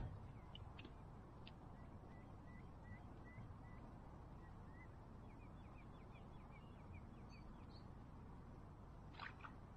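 Near-silent open-air quiet with a faint low rumble, and a small bird calling faintly in runs of short, quick chirps through the middle; a few light clicks near the start and end.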